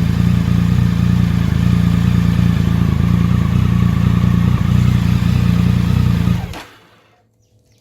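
A 2007 Triumph Tiger 1050's three-cylinder engine runs steadily through a full stainless Arrow low-boy exhaust system. About six and a half seconds in it is switched off and the sound dies away quickly.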